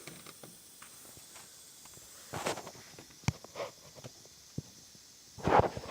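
Scattered handling noises: soft rustles and a few sharp clicks and taps, with brief louder scuffs about two and a half seconds in and near the end.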